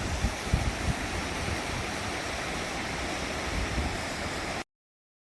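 River water rushing, with wind buffeting the microphone in the first second; the sound cuts off abruptly about four and a half seconds in.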